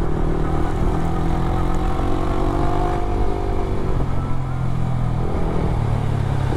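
Motorcycle with an aftermarket exhaust running on the road, its engine note climbing for a couple of seconds and dropping back about four seconds in, over a steady low exhaust drone.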